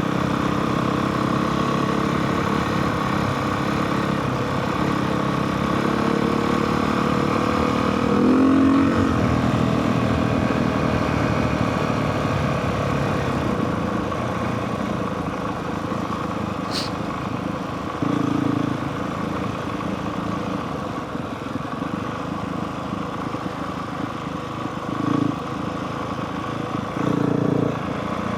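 Honda CRF450R dirt bike's single-cylinder four-stroke engine running while ridden, the revs climbing about a third of the way in, with a few short bursts of throttle in the second half.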